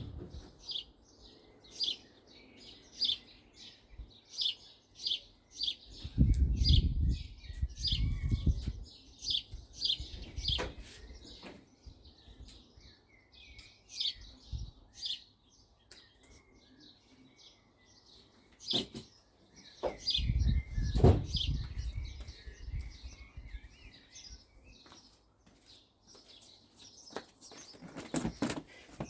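A small bird chirping over and over with short, high notes. Twice there are a few seconds of dull knocking and rustling, louder than the chirps.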